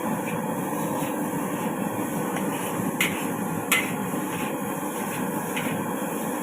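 Street-stall wok cooking: a steady rush from the high gas flame and frying, with a metal spatula clinking against the iron wok several times. There are two louder clanks a little past the middle.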